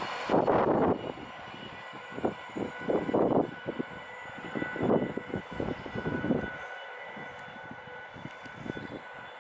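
A train running past with a steady high whine, while wind gusts buffet the microphone in irregular rumbles that ease off after about six and a half seconds.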